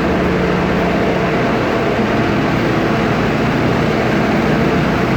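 Strong wind buffeting the microphone: a loud, steady rush with a flickering low rumble, and a faint steady hum underneath.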